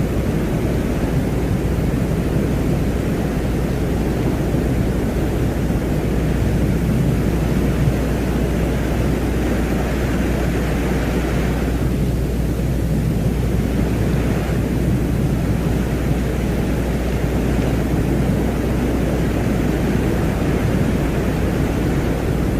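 Space-ambience noise drone presented as the sound of Venus: a steady low noise with no pitch or rhythm, and a higher hiss that swells and fades twice near the middle.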